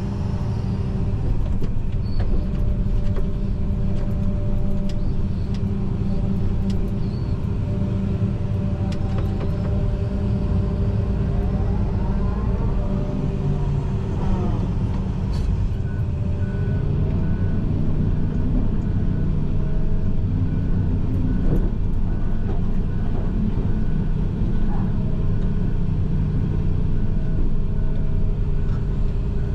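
John Deere 245G excavator's diesel engine and hydraulics running under load, heard from inside the cab: a steady low drone with a few whines that rise and fall in pitch around the middle, and scattered clicks and knocks.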